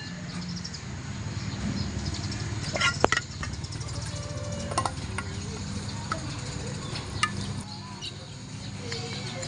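Scattered light clicks and knocks of kitchen utensils during food preparation, over a steady low hum.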